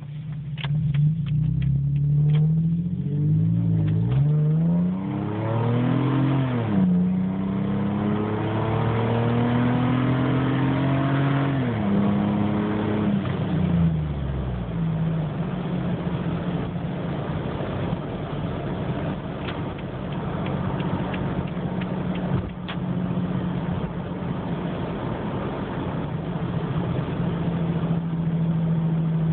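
Exhaust of a 2008 Toyota 4Runner's 4.0-litre V6 through an aftermarket DirtyDeeds muffler, with the rear resonator removed and a side exit. The engine accelerates, its pitch rising and dropping back at upshifts about seven and twelve seconds in, then eases off and settles into a steady cruise for the rest.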